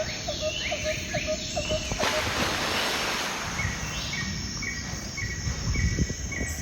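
Outdoor nature ambience: a short chirping call repeating about three times a second, then, from about halfway, a higher chirp repeating about twice a second, over a steady low rumble, with a spell of hissing noise about two seconds in.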